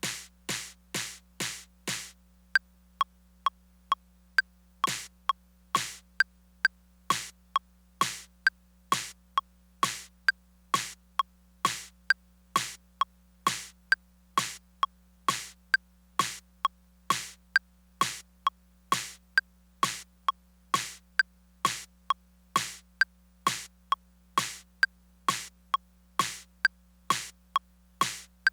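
Korg Electribe Sampler ES2 playing a sparse percussion pattern: sharp, bright drum hits repeating about twice a second, with short high blips between them. For the first two seconds the hits come quicker and softer, then they turn louder and steady.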